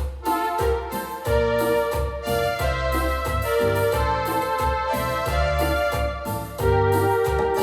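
Yamaha DX7 FM synthesizer playing a keyboard patch: held chords over a moving bass line, the notes changing every half second or so.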